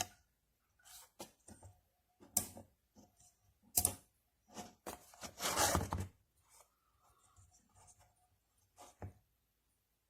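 Hand handling noises: scattered short clicks and taps, with a longer rustling scrape about five to six seconds in.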